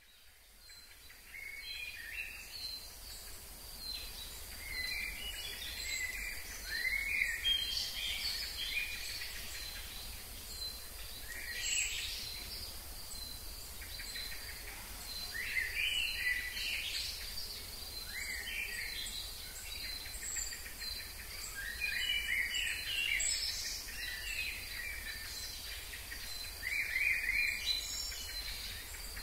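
Birds singing in short phrases of quick rising and falling notes, repeated every few seconds, over a steady high-pitched insect tone.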